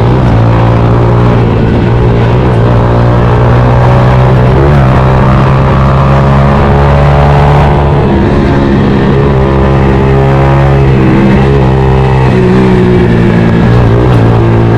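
Yamaha Fazer 153cc single-cylinder engine running loud through an aftermarket Daytona Dragex exhaust with its dB killer removed. The engine note rises and falls several times as it is revved and eased off.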